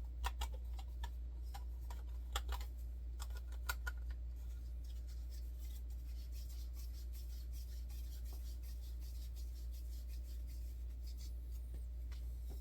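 Clicks and taps of 3D printer kit parts being handled and fitted together, several in the first four seconds, then only faint rubbing and the odd tick, over a steady low hum.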